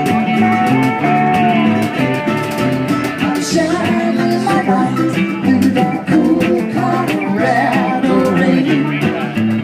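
Live acoustic band playing a song: strummed acoustic guitar and mandolin over congas and hand percussion, with a sustained melody line on top.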